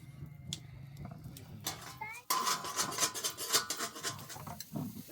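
A dense, rapid run of clinks and rattles starts suddenly a little over two seconds in and goes on for about two seconds, after a low steady hum.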